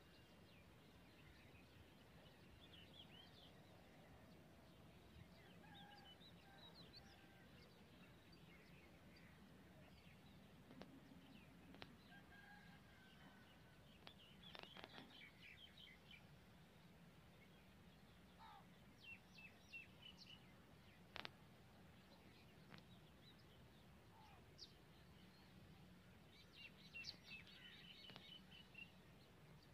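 Faint birdsong: scattered short chirps and brief whistled calls from several small birds, over a steady low hum. A single sharp click is heard a little after two-thirds of the way through.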